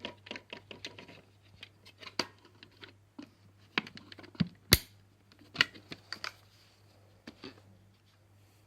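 Plastic clicks, knocks and rattles from handling a Vax cordless slim vac and working its dirt release button, with one sharp snap a little before halfway, under a faint steady hum.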